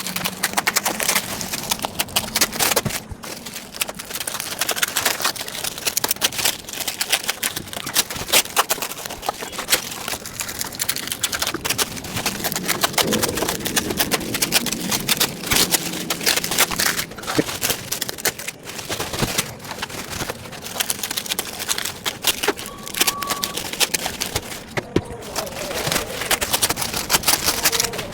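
A book parcel being opened by hand: continuous rustling, crinkling and tearing of its wrapping, with many quick clicks and crackles.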